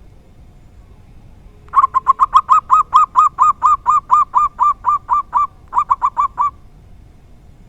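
Zebra dove (local perkutut) calling: a fast run of short, clipped notes, about five a second, lasting nearly five seconds with a brief break shortly before the end.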